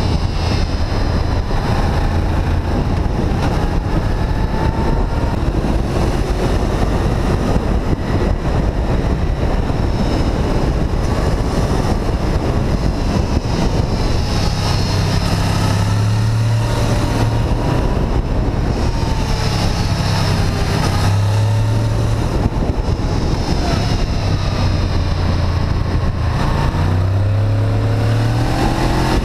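Honda VFR800 VTEC's V4 engine running while riding, its revs rising and falling again and again as the bike accelerates and shifts, under a steady rush of wind noise.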